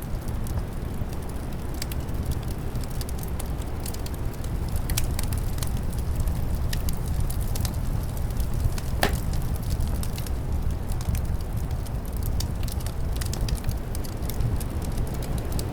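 Wood fire crackling with frequent small pops and one louder pop a little past the middle, over a steady low rumble of wind.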